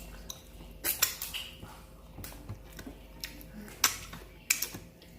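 Dishes and cutlery clinking and being handled: about half a dozen separate sharp clicks scattered irregularly.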